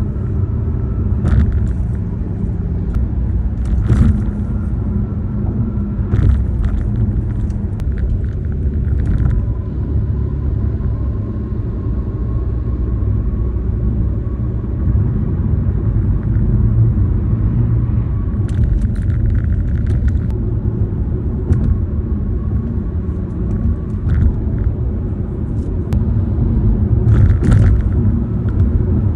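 Car tyre and road noise heard from inside the cabin: a steady low rumble with a faint whine, broken every few seconds by short knocks and rattles from the car's interior and the phone mount as the car crosses bumps and joints.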